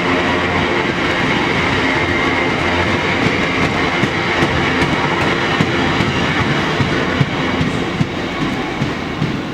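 Train rolling along the rails, its wheels giving a clickety-clack over the rail joints, with a slight fade near the end.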